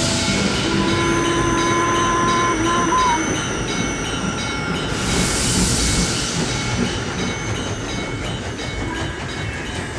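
Steam locomotive hissing as steam blows out of its chimney and cylinder drain cocks, a steady rush with a louder surge of hiss about five seconds in.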